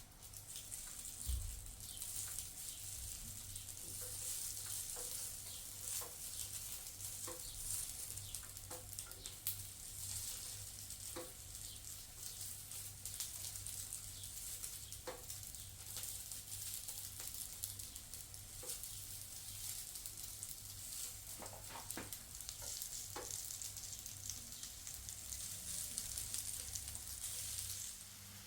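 Food sizzling in a hot frying pan, with short taps of a utensil stirring it now and then over a low hum. The sizzle drops off suddenly near the end.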